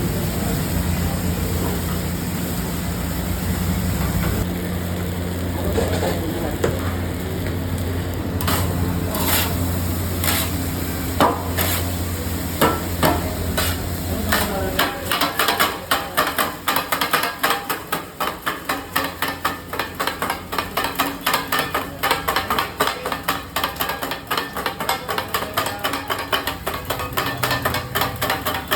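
Two flat metal kothu blades chopping parotta and egg on an iron tawa: a few scattered strikes, then from about halfway a fast, steady rhythm of metallic clanks. A steady low hum runs under the first half and stops about halfway.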